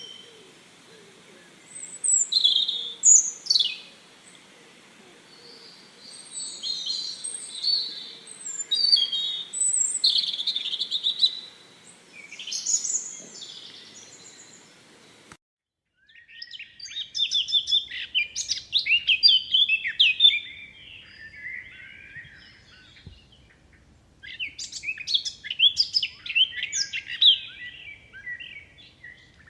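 Songbirds chirping and singing in bursts of quick, short calls and pitch glides. About halfway through, the sound cuts out for a moment and a busier run of chirping follows.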